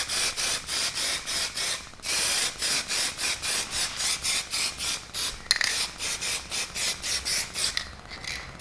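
Aerosol can of high-temperature caliper paint sprayed in quick short bursts, about three or four hisses a second, with one longer spray about two seconds in.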